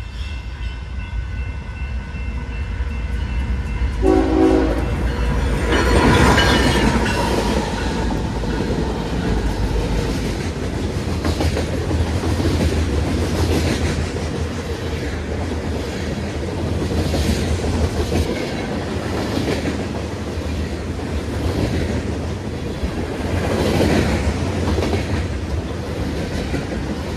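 BNSF grain train passing: the diesel locomotives rumble, the horn gives a short friendly honk about four seconds in, and then the freight cars roll by with rhythmic wheel clatter over the rail joints.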